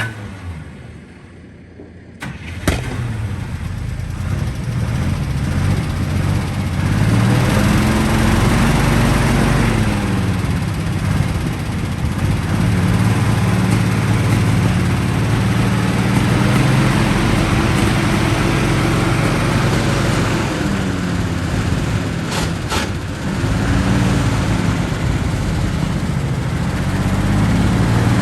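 The 1961 Dodge M37 truck's flathead inline-six engine starts about two and a half seconds in, then runs, its speed rising and falling several times as it is revved.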